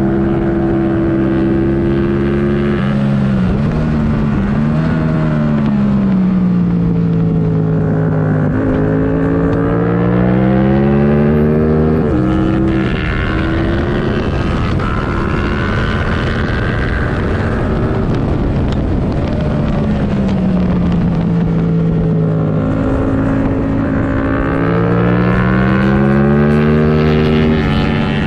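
2022 Yamaha R7's 689 cc parallel-twin engine, with the airbox removed and a MIVV Delta Race exhaust, ridden hard on track. The revs climb under acceleration with sudden drops at upshifts, then sink in long glides as the bike slows, twice over, with a constant rush of wind noise.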